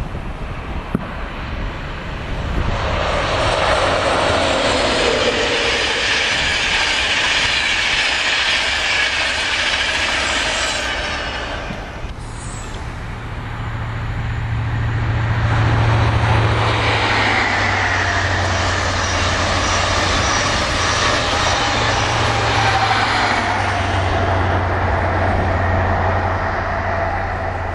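Two trains passing at speed one after the other on a main line, each a swelling rush of wheel and air noise with tones sliding downward as it goes by. The second carries a steady low drone under the rush.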